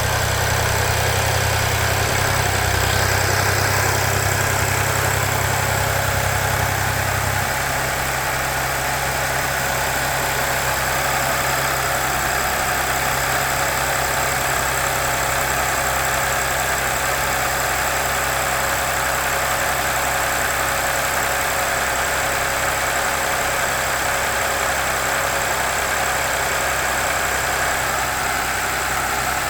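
2009 Audi A6 Avant engine idling steadily just after a cold start. A low hum, which the owner takes for the secondary air pump switching off, stops about seven seconds in.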